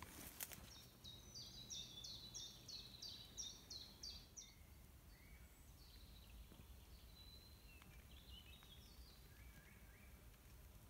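Faint forest birdsong: a songbird repeats a short high note about ten times, roughly three a second, then gives softer scattered calls. A brief rustle comes right at the start.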